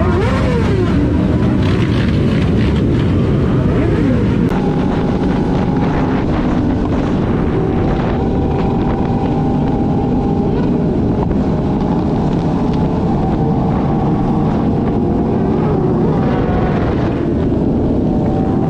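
Motorcycle engines running at speed with heavy wind noise on the microphone; a few revs rise and fall in the first few seconds.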